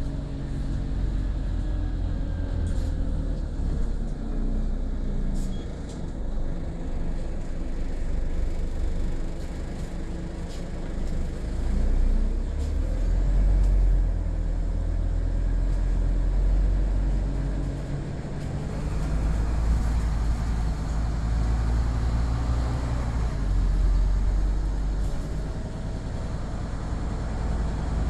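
Scania OmniCity city bus engine running under way, its pitch rising and falling as the bus accelerates and eases off, with a steady low rumble and a few short rattles.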